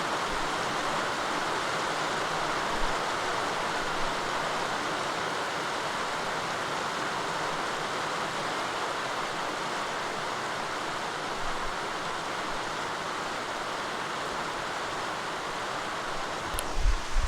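Steady rain falling, an even hiss. Near the end there is a click and a few low rumbling thumps.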